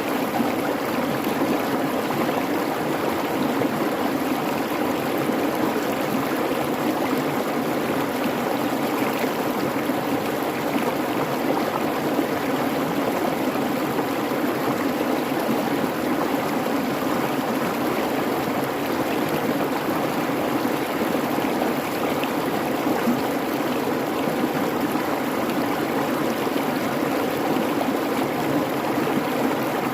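Creek babbling and rushing steadily over stones, an even, unbroken water noise.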